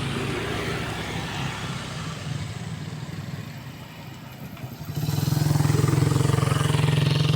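Road vehicles passing with engines running, one passing close from about five seconds in with a louder, low, pulsing engine hum that fades out just after the end.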